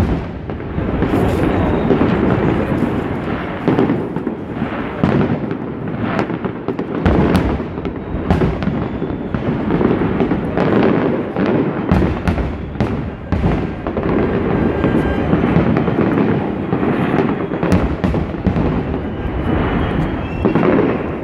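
Fireworks display: shells bursting in quick succession, many sharp cracks and booms over a continuous rumbling din, recorded on a smartphone.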